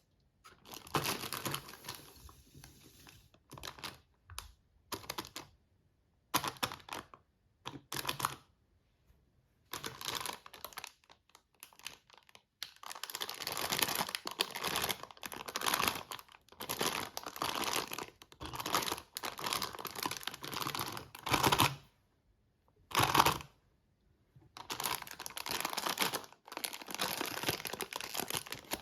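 Toy packaging being handled and opened: bursts of crinkling and tearing, broken by short silent gaps.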